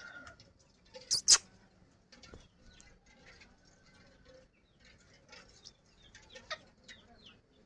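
A parrot gives two short, shrill squeaks in quick succession about a second in, followed by scattered faint clicks and soft peeps.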